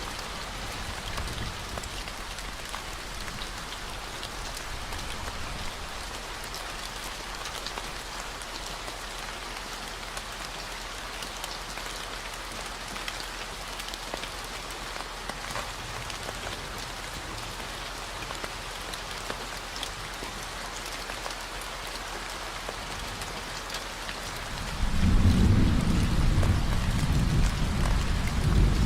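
Steady rain falling on a surface, an even hiss with many small drop ticks, over a constant low 40 Hz hum. About 25 seconds in, a loud low rumble of thunder rises and keeps going.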